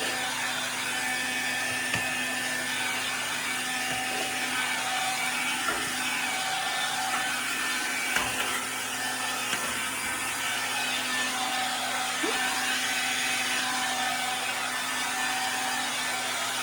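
Swiffer Sweep and Vac cordless stick vacuum running steadily, a motor whine with a few short clicks and knocks as it is pushed over the floor.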